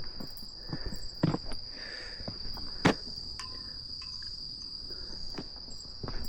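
Insects trilling in one steady, unbroken high note, with a few soft knocks and one sharp click about three seconds in.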